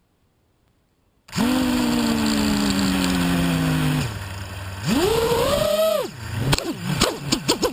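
FPV racing quadcopter's brushless motors whining. The pitch sags slowly at first, then swoops up and down quickly as the throttle is punched and cut.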